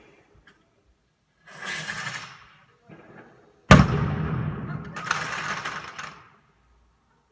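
A firework going off with one sharp, loud bang about halfway through, followed by a couple of seconds of noise. A shorter burst of noise comes about two seconds before the bang.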